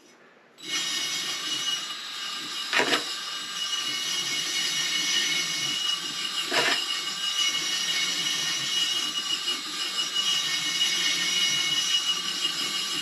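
Cylinder hone running in the oiled, rust-caked cylinder bore of a 1973 Honda CB450 engine: a steady grinding sound that starts about half a second in, with two sharp knocks about four seconds apart. Rust toward the top of the bore can be heard in it.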